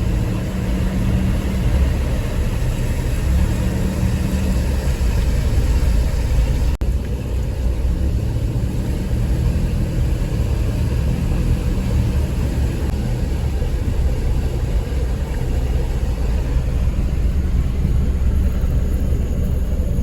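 Steady low rumble of a vehicle driving, engine and road noise, with a brief drop about seven seconds in.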